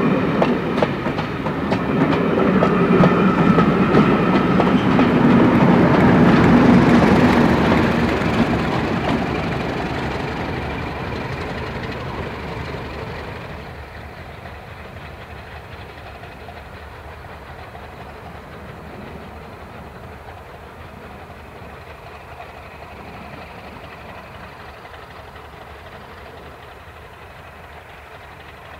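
Heritage passenger train passing close by, its coach wheels clattering over the rail joints, with the steady drone of the Class 31 diesel locomotive at the rear. It is loudest about seven seconds in and then fades. After a cut it is heard more faintly, drawing away.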